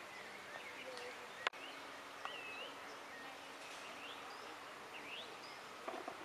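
Faint birdsong: several small birds chirping and whistling in short, scattered calls over a steady outdoor hiss, with a single sharp click about one and a half seconds in.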